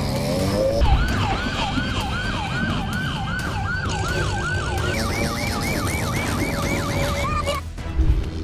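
Emergency siren in a fast yelp, sweeping up and down about three to four times a second. About five seconds in it switches to a higher-pitched yelp, then cuts off suddenly near the end, followed by a thump.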